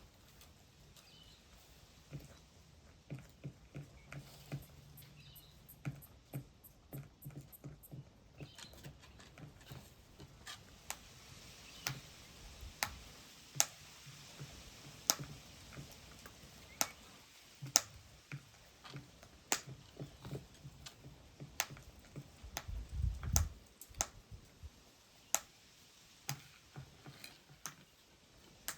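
Birds pecking and tapping at food: irregular sharp clicks, sparse at first and then about one a second, with a brief low thud about two-thirds of the way through.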